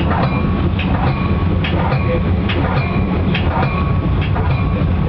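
Metra commuter train rolling along the track, heard from inside the front car: a steady low rumble with irregular clicks, about one a second, as the wheels pass rail joints and crossings.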